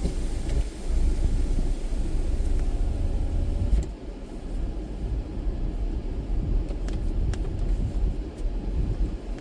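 Low steady rumble of a car creeping forward at low speed, heard from inside the car, with a few faint clicks.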